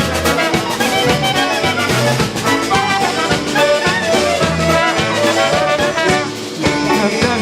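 Polish-American polka band playing an instrumental passage of a polka, led by brass over a steady two-beat bass and drums.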